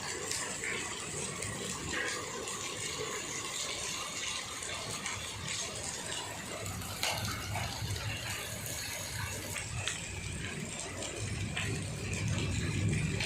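Steady rain falling, with many small drops ticking and clicking on hard surfaces. A low rumble rises near the end.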